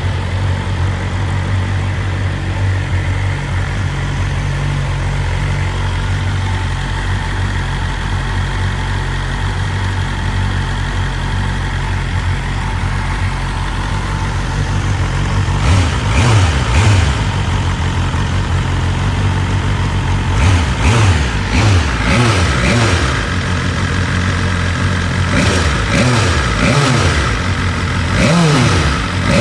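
BMW S1000RR's inline-four engine idling steadily, then revved in a series of quick throttle blips through the second half, each rising sharply and dropping back to idle.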